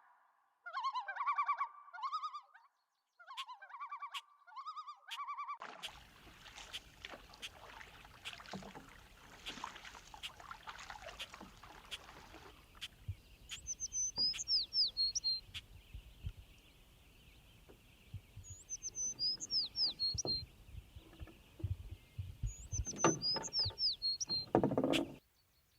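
A songbird sings the same short phrase of high, falling chirps three times, about five seconds apart, over outdoor ambience with scattered clicks and knocks. Before the ambience begins, a few seconds of short pitched notes play over silence.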